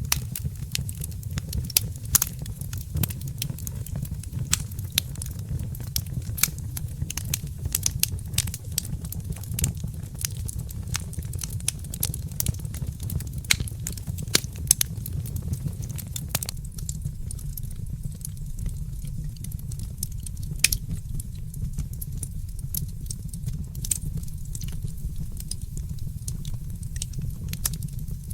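Wood fire crackling in a fireplace: irregular sharp pops and snaps over a steady low rumble, the pops growing sparser about halfway through.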